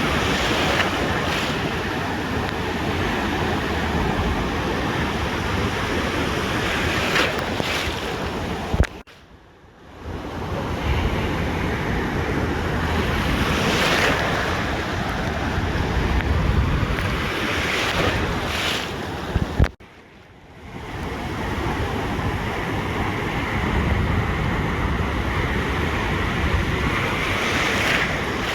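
Ocean surf breaking and washing on a beach, swelling every few seconds, with wind buffeting the microphone. The sound cuts out abruptly twice, about nine and twenty seconds in, and comes back a second later.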